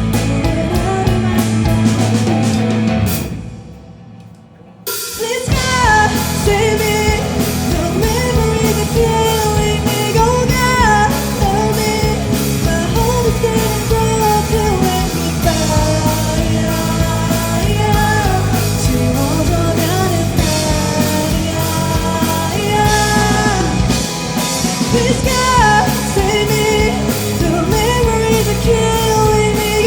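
Live rock band with drum kit, electric guitars, bass and keyboard playing behind a lead singer. A few seconds in the music falls away into a brief near-silent break, then the full band crashes back in with the vocal line.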